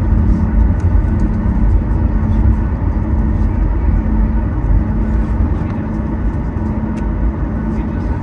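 Boeing 737 MAX 8 cabin noise while taxiing: a steady low rumble from the engines at idle and the air system, with a faint tone that pulses on and off.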